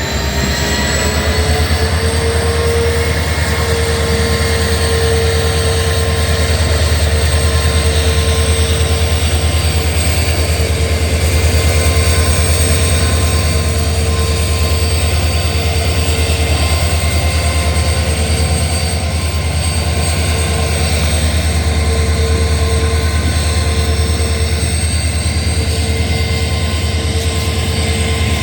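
Diesel locomotive engine running under power, a deep throbbing hum beneath a high turbocharger whine that rises in pitch over the first two seconds and then holds steady.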